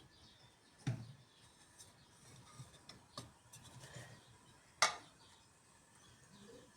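A few sharp clicks and knocks against a quiet background, the loudest about five seconds in.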